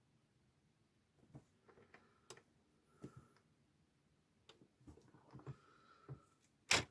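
Scattered small clicks and taps of hand tools and small parts handled on a workbench, with one sharper, louder click near the end.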